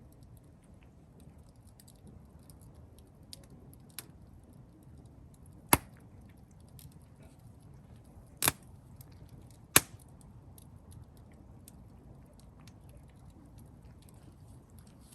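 Campfire crackling: a soft bed of small ticks with a few sharp pops from the burning wood, the loudest three in the middle of the stretch.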